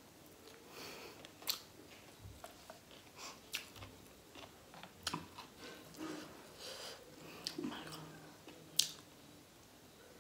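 Close-miked chewing of grilled pork sekuwa and rice, with wet mouth smacks and sharp clicks scattered throughout; the loudest click comes near the end.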